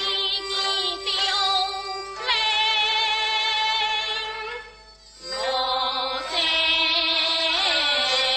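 Teochew opera music: long held melodic notes with a slight waver. There is a brief break about five seconds in before the melody resumes.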